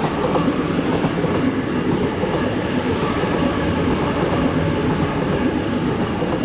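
A Sydney Trains A set (Waratah) double-deck electric train passing through the station at speed, with a steady rush of wheels on track that begins to fade near the end.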